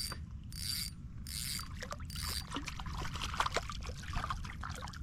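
Fishing reel mechanism whirring in four short, evenly spaced bursts, followed by a run of light irregular clicks and trickling water.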